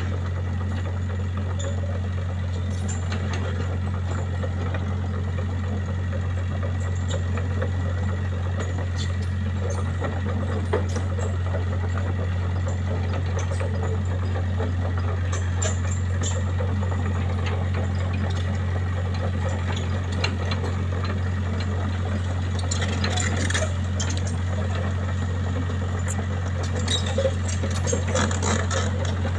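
Engine running steadily at a constant speed, an even low drone, with some rattling and clicking near the end.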